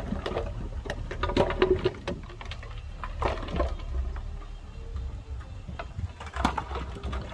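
Heavy diesel earthmoving machinery running with a low rumble, with irregular clanks and knocks.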